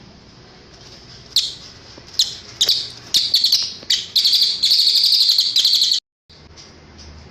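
Cililin bird singing: a few sharp, high chirps, then a rapid trill lasting about two seconds that cuts off abruptly about six seconds in.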